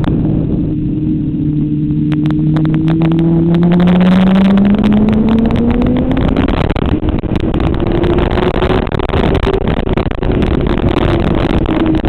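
Motorcycle engine accelerating with its pitch climbing steadily, then a gear change about halfway through, after which it runs at a fairly steady pitch. A heavy rush of wind from riding at speed runs under it.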